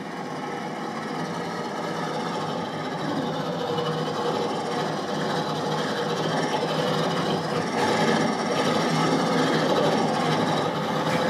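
Sound effect of a car engine approaching, growing steadily louder.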